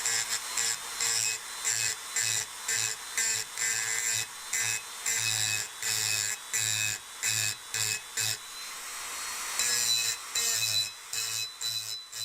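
A hand tool worked in quick back-and-forth strokes during axe restoration work, about two to three strokes a second, pausing briefly about eight seconds in before starting again.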